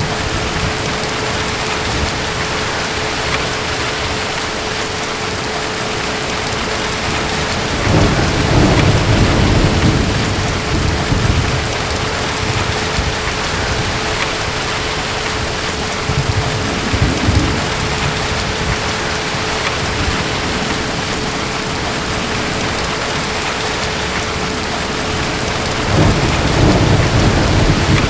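Steady heavy rain with distant thunder rumbling low three times: about a third of the way in, around the middle, and again near the end.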